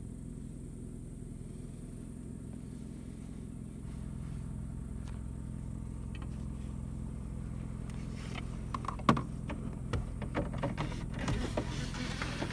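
Car engine idling, a steady low hum heard from inside the cabin. From about eight seconds in, a scatter of sharp clicks and knocks joins it, the loudest about nine seconds in.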